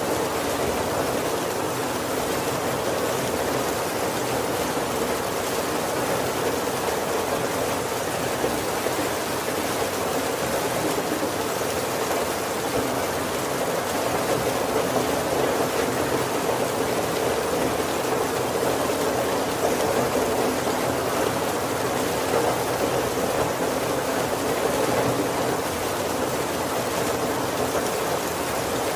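Heavy rain falling steadily on the roof and windows of a wooden carriage, an even wash of rain noise with no thunder.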